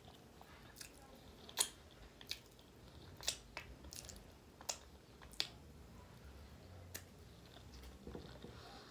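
A person chewing a mouthful of rice, beans and chicken eaten by hand, with about eight short, sharp wet smacks and clicks scattered through.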